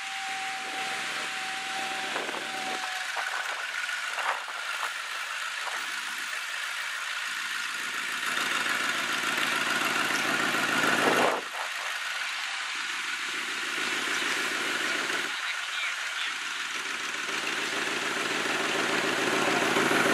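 Koenigsegg Regera's twin-turbo V8 running at low revs as the car creeps along. The engine note swells and rises in pitch a few times.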